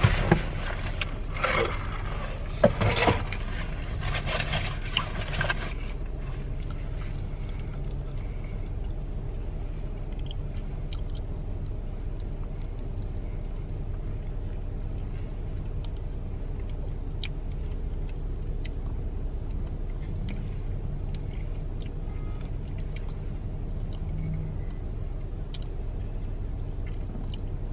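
Steady low rumble inside a car cabin, with a few faint clicks. In the first few seconds there are louder scraping and rustling noises.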